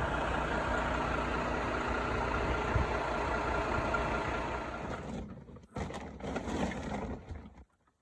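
Truck engine and road noise while driving, a steady rumble that weakens about five seconds in, breaks up with brief drop-outs and cuts off near the end.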